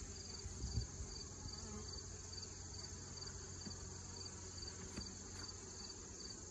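Crickets chirping faintly: a high chirp repeating about two to three times a second over a continuous high trill, with a couple of soft knocks about a second in.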